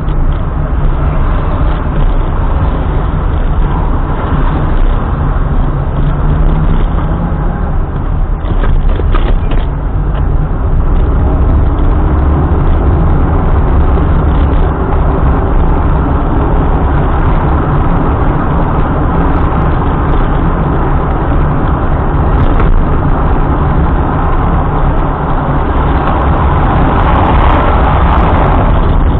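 Car on the move: steady engine and tyre road noise, swelling slightly near the end.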